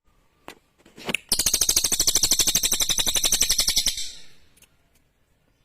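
Cililin songbird singing: two short sharp chirps, then a loud, fast, even, high-pitched trill lasting about two and a half seconds that trails off near the end.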